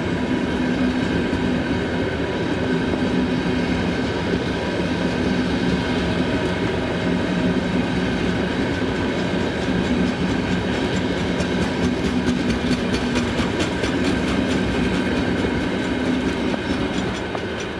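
Freight train of hopper wagons rolling past, wheels clattering over the rail joints over a steady low hum, the clatter densest in the second half; the sound begins to fade at the very end as the train moves away.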